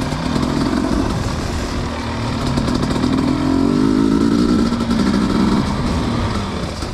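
Dirt bike engine running at low revs, its pitch climbing a little through the middle and dropping back near the end.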